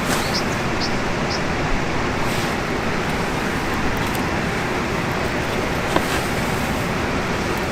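Steady rushing noise with a few sharp crackles and pops scattered through it.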